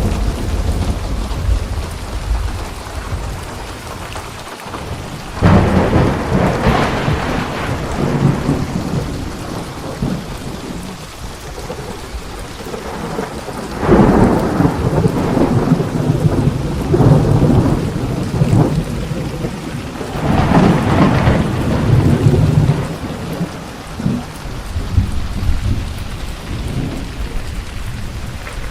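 Steady rain with thunder: three loud thunderclaps, about five, fourteen and twenty seconds in, each rolling on as a rumble for a few seconds.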